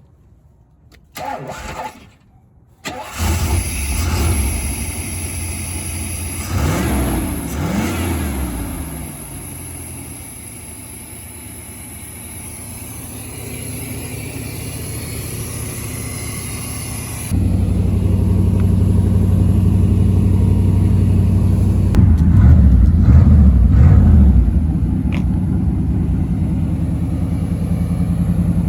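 Truck engine starting about three seconds in, revving briefly and settling to a steady idle. After an abrupt cut a little past halfway, a truck engine runs louder, with a few quick revs.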